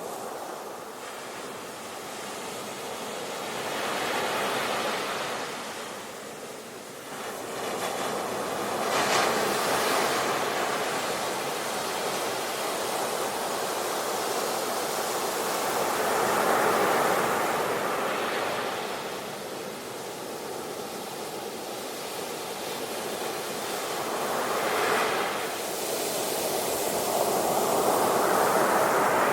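Sea waves breaking and washing on the shore, one after another, the surf swelling loud and easing off every few seconds.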